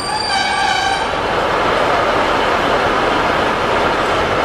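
Diesel multiple-unit train at a station: a high metallic wheel squeal made of several steady tones dies away in the first second, then the train's steady rumbling run takes over.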